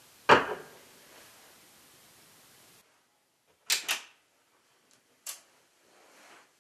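One brief loud sound just after the start, then short crisp rustles of a duvet as someone turns over in bed: two close together a little under four seconds in and one more about a second and a half later.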